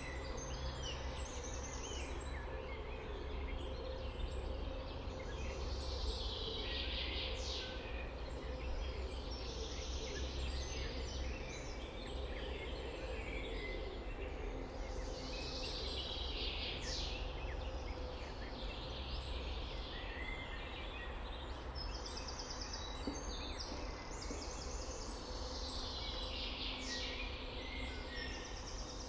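Several songbirds singing, one repeating a short phrase that falls in pitch every few seconds, over a steady low background rumble.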